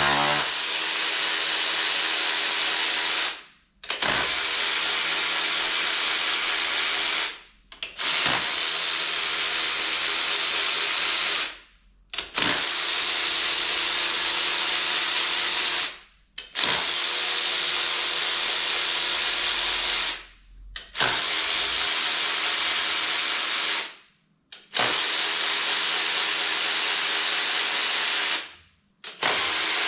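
A power tool running in repeated bursts of about four seconds, stopping abruptly between them, with a steady hiss over a motor tone.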